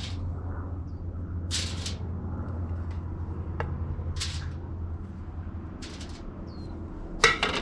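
A few short crinkles and rustles of aluminium grill foil and a sharp tap as pats of butter are laid on it, with a louder rustle near the end, over a steady low hum.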